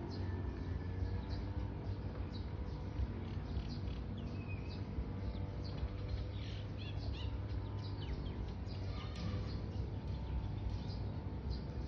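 Small birds chirping in short, high, scattered calls, over a steady low hum.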